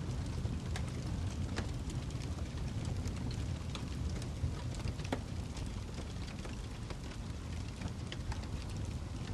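Wood fire burning in a fireplace: a steady low rumble of flames with frequent sharp, irregular crackles and pops from the burning log.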